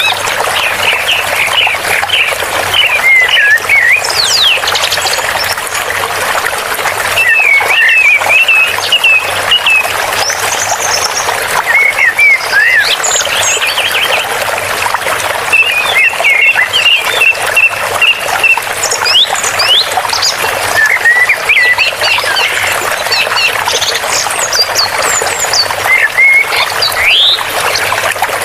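Running water with many small birds chirping over it, in quick rising and falling calls that come and go throughout.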